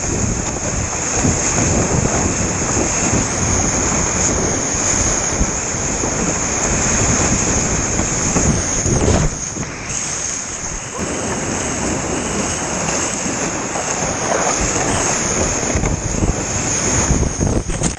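Loud, steady rush of moving river water, with wind buffeting the microphone.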